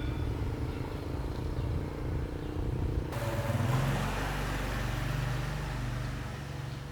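Truck engine running steadily with a low drone. From about three seconds in, a louder, rushing noise joins it.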